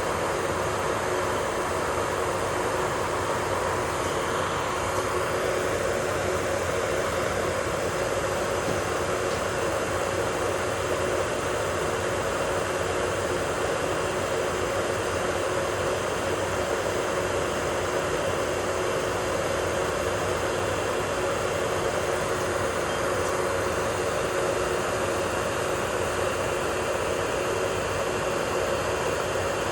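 Electric nail drill (e-file) running at a steady speed, a constant motor hum with a steady whine.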